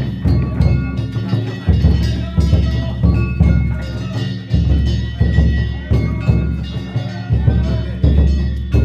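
Danjiri festival music: a large taiko drum beaten in a steady, repeating rhythm with metal hand gongs clanging over it, a loud stroke about every three-quarters of a second.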